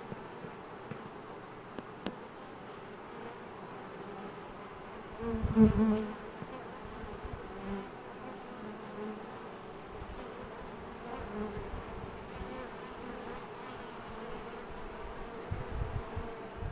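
Honey bees of a freshly hived swarm buzzing steadily as they fly around the box. About five seconds in, a louder, lower buzz swells briefly as a bee flies close past.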